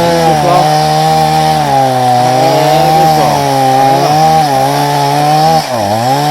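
Chainsaw cutting through a thick jatobá log, its engine running steadily under load. The pitch sags briefly a couple of times as the chain bites, most deeply near the end.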